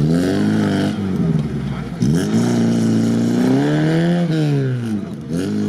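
Lada Niva's engine revving hard as it drives through mud, its wheels spinning and throwing up mud. The revs climb sharply at the start, dip about a second in, rise again and hold, then fall and pick up again near the end.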